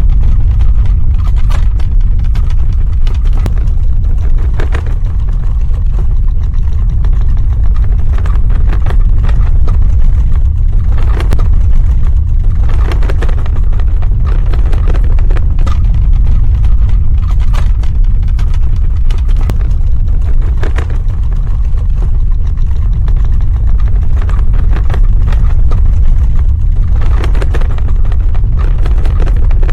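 Earthquake sound effect: a loud, continuous deep rumble with scattered crackles and knocks over it, swelling now and then.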